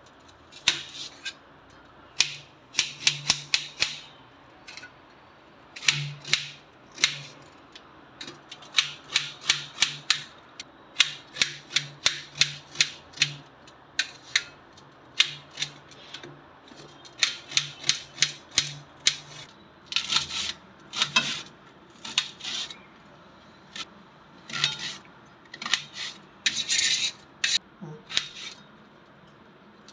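Knife chopping on a cutting board in quick runs of sharp strokes, with short pauses between runs, over a faint low hum.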